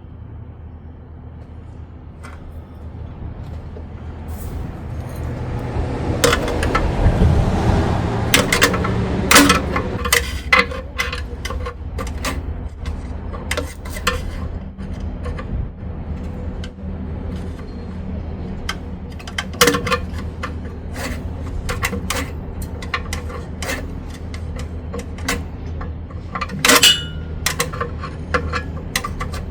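Metal hand tools clinking, clicking and rattling as a wrench and socket work the last torque converter bolts through the flexplate. A rushing noise swells and fades around five to nine seconds in, and sharp metallic knocks stand out about ten, twenty and twenty-seven seconds in.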